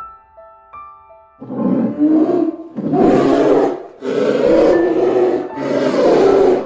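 Lion roaring four times in a row, each roar a long rasping call of about one to one and a half seconds, over soft piano music.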